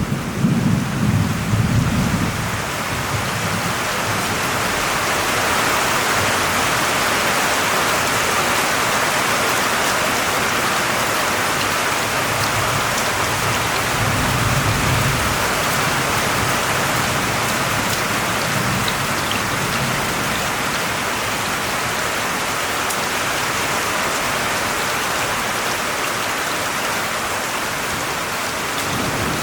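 Steady, even rain falling, with a low rumble of thunder dying away in the first couple of seconds and a fainter rumble about halfway through.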